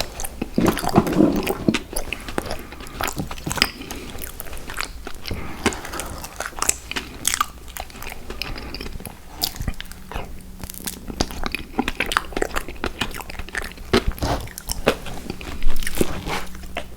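Close-up eating of sour gummy worms cereal: biting and chewing with many sharp crunches and crackles throughout, loudest near the end.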